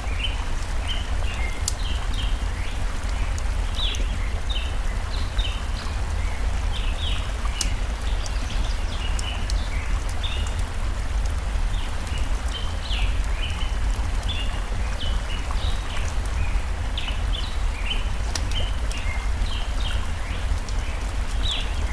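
Flowing stream rushing steadily, with many short, high bird chirps throughout and the occasional sharp crackle of a wood fire.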